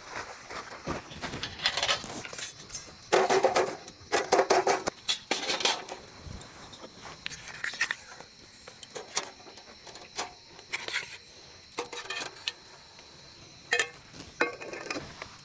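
Irregular clicks, knocks and clatters of small hard objects being handled, heaviest in a cluster about three to five seconds in.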